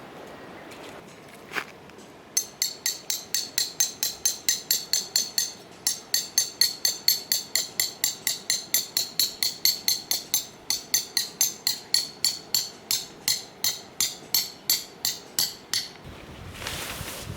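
A hammer driving metal tent pegs: rapid ringing metal strikes, about three a second, in long runs with short pauses, after one lone knock.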